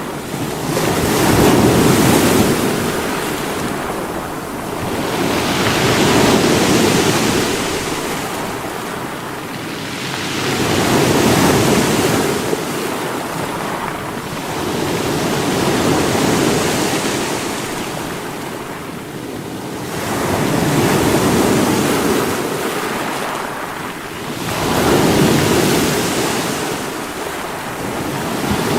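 Sea waves breaking against rocks, a continuous rushing surf that swells and ebbs about every four to five seconds, about six surges in all.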